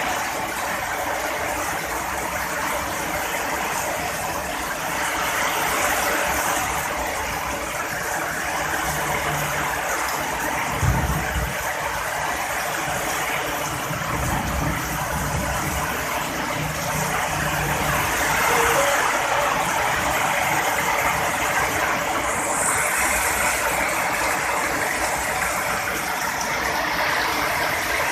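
Heavy rain falling steadily in a continuous hiss, with a low rumble of thunder about eleven seconds in that rolls on for a few seconds more.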